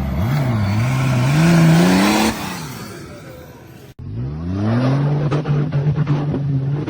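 Off-road truck engine revving, rising in pitch for about two seconds and then dying away. After a sudden cut about four seconds in, another engine revs up and holds a steady note, with a string of sharp knocks and clunks over it.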